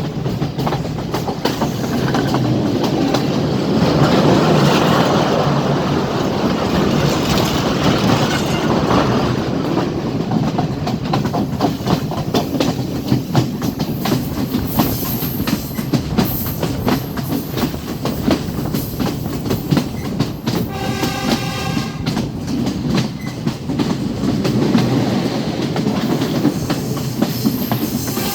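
Passenger train running along the line, wheels clattering steadily over the rail joints with a constant rumble. About twenty seconds in, a horn sounds briefly, for a second or so.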